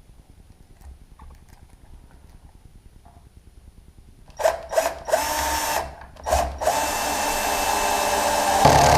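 Power drill-driver driving hinge screws into wood. The first few seconds hold only faint handling clicks. Then, after a few knocks, the motor runs in two steady whining spells: a short one about five seconds in and a longer one from about six and a half seconds, which gets louder near the end.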